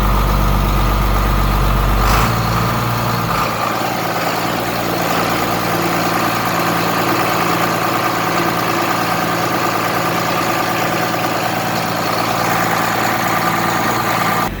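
John Deere 4250's six-cylinder diesel idling steadily after a cold start. About two seconds in there is a brief knock, and the deepest part of the rumble falls away.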